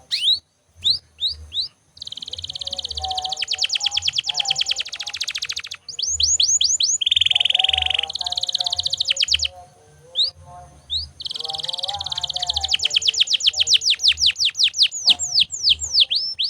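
Domestic canary singing long, fast rolling trills of repeated downward-sweeping notes, with a harsher buzzing passage about seven seconds in and a brief pause near the middle.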